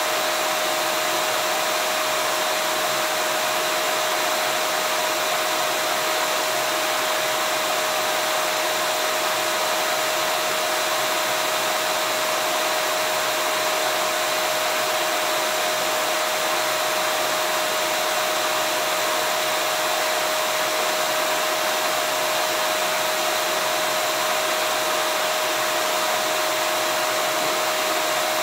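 Vacuum cleaner running steadily: an even rushing of air with a constant motor whine, unchanging throughout.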